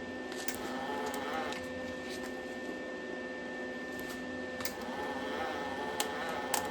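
Wire-feed welder's drive motor running steadily to feed new wire through the gun, a constant whine, with a few sharp clicks.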